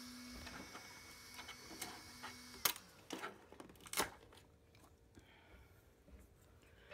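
A 3D printer's stepper motors running with a steady hum that stops shortly after the start and comes back briefly around two seconds in. Then a few sharp clicks, the loudest about two and a half and four seconds in.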